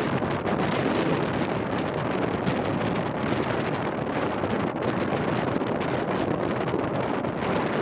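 Strong mountain wind buffeting the microphone: a steady, loud rush of noise.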